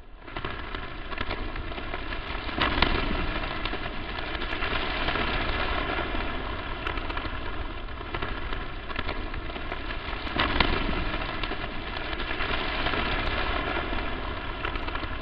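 Crackling static noise: a dense hiss full of small pops with a faint buzz through it, swelling louder about three seconds in and again about ten seconds in.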